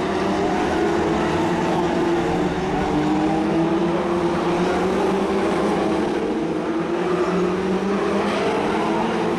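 BriSCA F2 stock cars racing, their engines running hard together in a steady, loud drone whose pitch drifts up and down as the cars lap.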